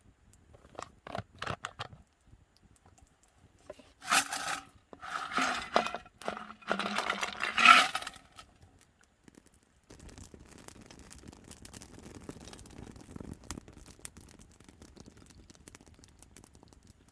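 Handling noises: several bursts of scraping and rustling, the loudest from about four to eight seconds in, with a faint ring to them. From about ten seconds on there is a faint, even hiss.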